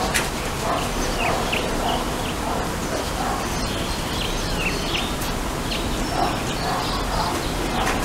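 Birds chirping: a series of short, falling chirps, several a second at times, over a steady rushing hiss.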